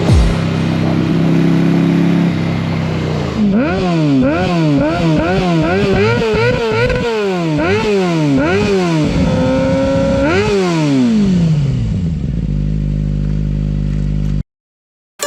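Motorcycle engine running steadily, then revved up and down over and over, about once a second, for several seconds before it settles back to a steady note. The sound cuts off abruptly near the end.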